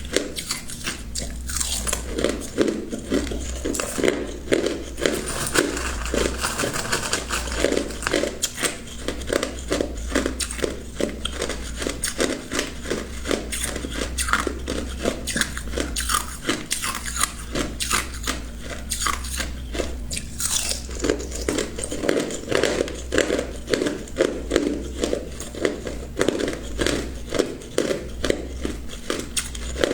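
Ice being bitten and chewed close to the microphone: a run of loud, sharp crunches and cracks, several a second, as the cubes shatter between the teeth.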